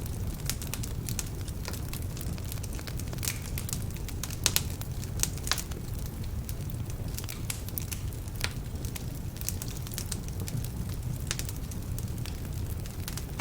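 Wood fire burning in a fireplace, with a steady low rumble and irregular sharp crackles and pops, two louder pops about four and a half and five seconds in. The crackling comes from logs still a bit damp.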